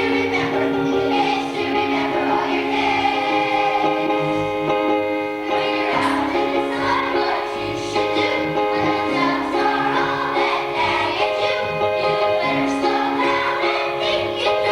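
A choir singing a song with instrumental accompaniment, in long held notes.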